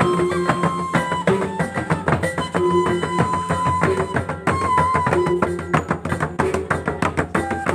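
Mandailing gordang sambilan drum ensemble playing: fast, dense interlocking drum strokes under a wind instrument's melody that steps between long held notes.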